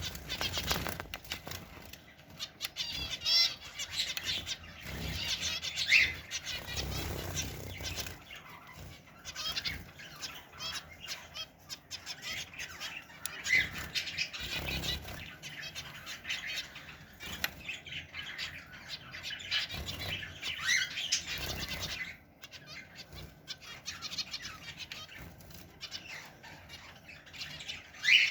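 Zebra finches chirping and twittering in a dense, continuous stream of short, high calls, with a few low thumps in between.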